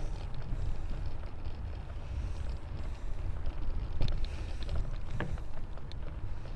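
Wind buffeting an action camera's microphone while riding a mountain bike on a dirt trail, a steady low rumble with tyre and gravel noise. A few sharp clicks or knocks from the bike over the trail, the clearest about four and five seconds in.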